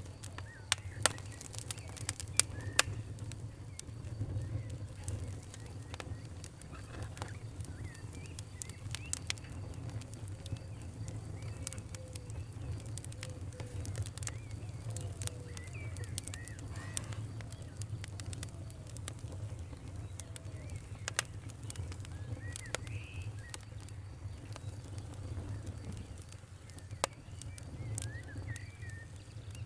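Wood fire crackling: irregular sharp pops and snaps, a few much louder ones near the start, over a steady low rumble.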